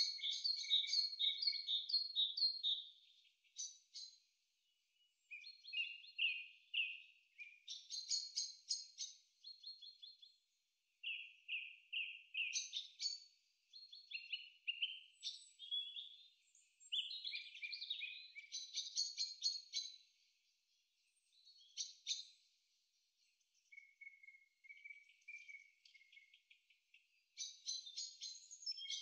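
Songbirds singing: short phrases of rapid, repeated high chirps and trills, one after another with brief pauses between them.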